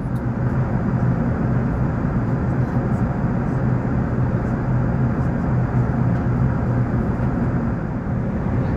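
Steady cabin noise inside an Airbus A380: a continuous rush of airflow and Rolls-Royce Trent 970 engine noise with a steady low hum beneath it.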